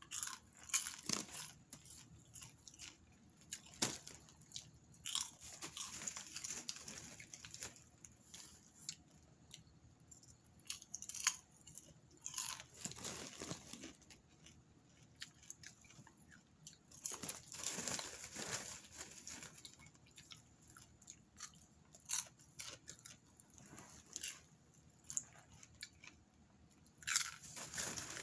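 Popcorn being chewed close to the microphone, with irregular crunches throughout. Near the end, a hand rustles in the plastic bag to take more.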